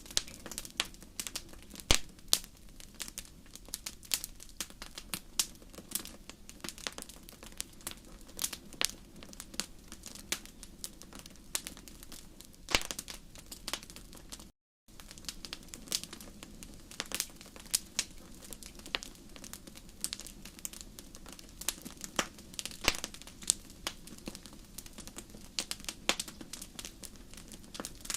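Wood fire in a fireplace crackling, with frequent irregular sharp pops over a low steady background; the sound cuts out for a split second about halfway through.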